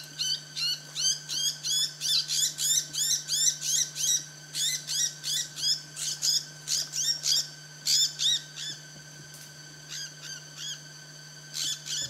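Small bird calling in quick, repeated short rising chirps, about three a second, thinning out to a few scattered calls after about eight seconds.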